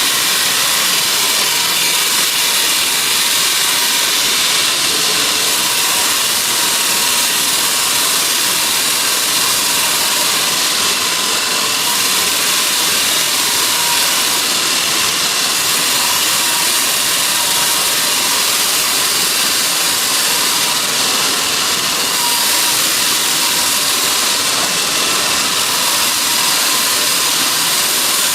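Sawmill saw running with a constant, even rush of noise that stays the same throughout, with no breaks.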